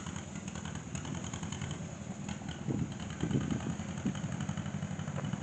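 An engine running steadily at low speed with an even low putter, most likely a tractor engine.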